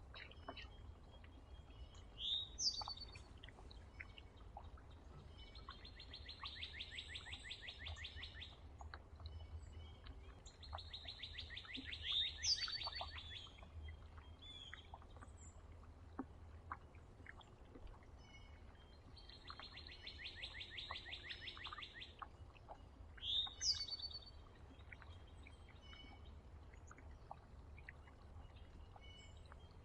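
Songbirds at a feeder: a fast, even trill lasting about three seconds repeats four times, with a few sharp, loud call notes between the trills and faint scattered ticks. A steady low rumble runs underneath.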